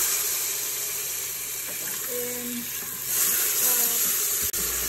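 Onions, pimento peppers, garlic and spices frying in hot oil in an Instant Pot's stainless inner pot, a steady sizzle that grows louder about three seconds in, stirred with a spatula.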